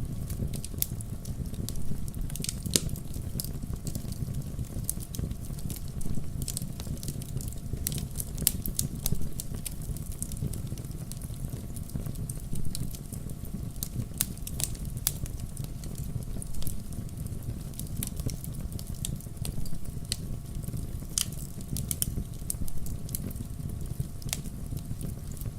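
Logs burning in a fireplace, crackling: irregular sharp pops and snaps over a steady low rumble of the fire.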